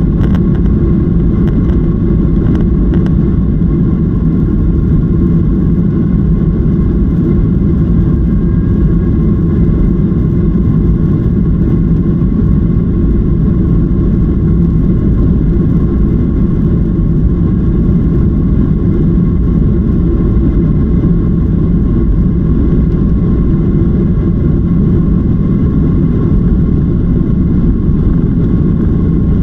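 Jet airliner cabin noise: a loud, steady engine drone with a low rumble and faint steady whining tones, heard from inside the passenger cabin.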